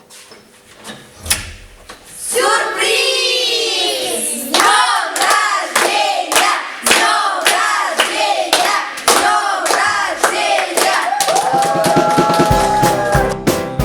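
A group of voices gives one long falling shout, then sings in time with steady hand claps about twice a second. Piano music comes in near the end.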